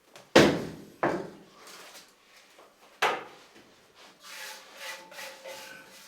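Bakery equipment being handled: three sharp knocks, the first two about half a second apart and the third about two seconds later, then lighter clatter with brief ringing.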